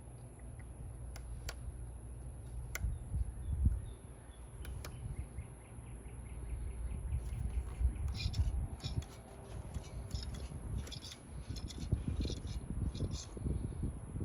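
Low rumble of wind on the microphone, with a few sharp clicks in the first five seconds, then a run of quick, high bird chirps through the second half.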